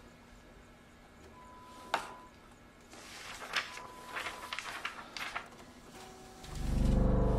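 A sheet of office paper being handled and lifted, giving a sharp click about two seconds in and a run of crackles and rustles in the middle. Near the end a loud low hum swells in.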